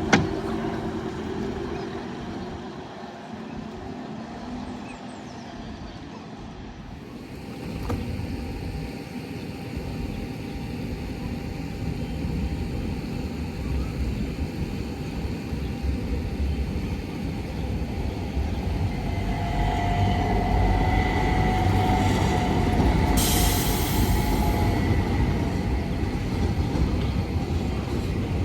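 Heritage tram running on rails. A sharp click comes at the start, and the rumble grows louder from about seven seconds in as the tram gets going. Near the end there is a steady whine and a short hiss.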